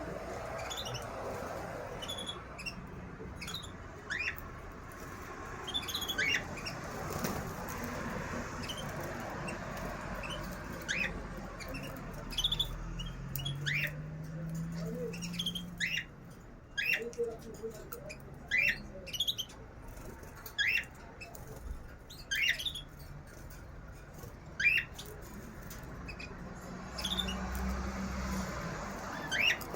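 Small caged birds chirping: a string of short, sharp, rising calls every second or two over a low background murmur.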